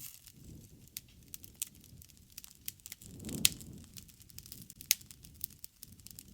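Wood campfire burning: scattered crackles and sharp pops over a soft low rush of flame. The flame noise swells briefly around the loudest pop, about three and a half seconds in, and another loud pop comes near five seconds.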